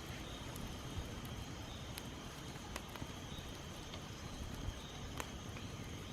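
Small campfire of dry twigs and palm fibre crackling with a few sharp pops, over steady wind rumble on the microphone and a constant high insect drone.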